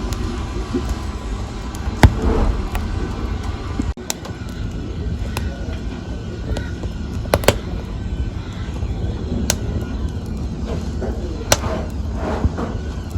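Wood fire crackling, with sharp pops scattered over a steady low rumble of burning; the loudest pop comes about two seconds in.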